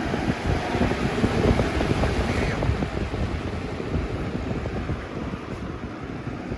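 1995 Windmere box fan with a brace blade running, its airflow rushing against the microphone; the level eases down gradually.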